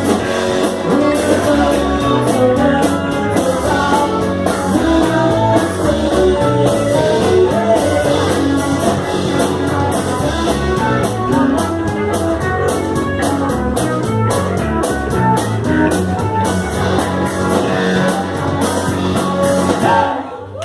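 Rock band playing: electric guitar, drum kit with a steady beat, and singing, until the song stops near the end.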